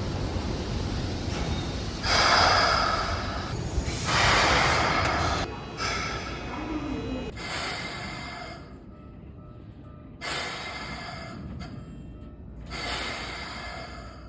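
Air brakes of a Keikyu 1500 series train releasing, heard as five sharp hisses of escaping air about every two to three seconds, the first two loudest, over a low rumble that fades partway through.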